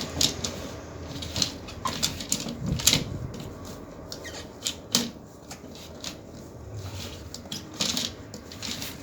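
Irregular clicking and tapping of small plastic toys being handled, with a few louder knocks.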